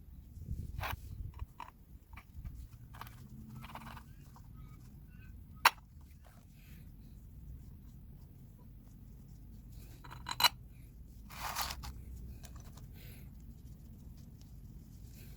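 Hand tools and engine parts being handled while a car's water pump is fitted: scattered clicks and scrapes, with a sharp click about six seconds in, another about ten seconds in, and a short rustle just after.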